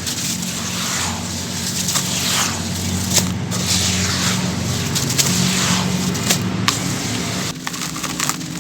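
Sand-cement chunks crumbling in water: a steady crackling fizz dotted with many small sharp pops, over a low steady hum.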